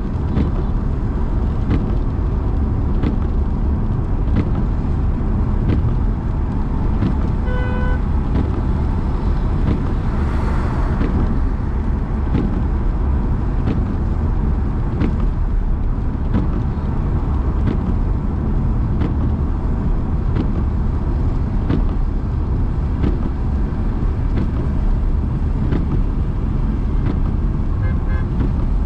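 A car driving along a road, with a steady low rumble of engine and road noise. About eight seconds in there is a short pitched tone, and a couple of seconds later a brief swell of noise, like another vehicle going past.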